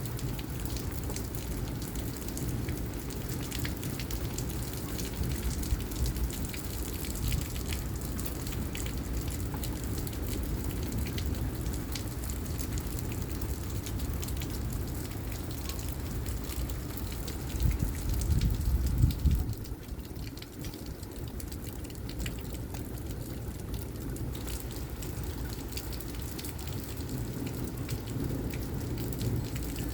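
Heavy thunderstorm rain falling steadily, with many small drops ticking. About eighteen seconds in a louder low rumble swells for about two seconds, then eases back.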